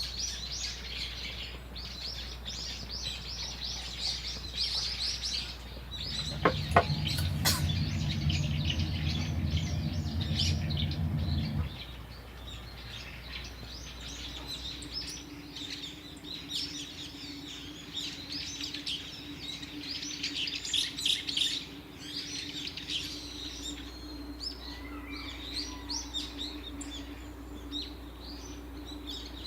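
Small birds chirping rapidly and continuously. A low hum runs for about five seconds, starting with two sharp clicks, and a faint steady low tone sets in about halfway through.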